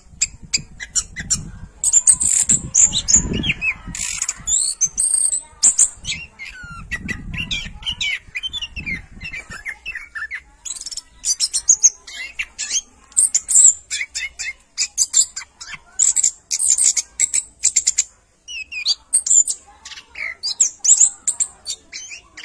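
A bird chirping and twittering in a rapid stream of short, high calls and clicks, pausing briefly a little after eighteen seconds in.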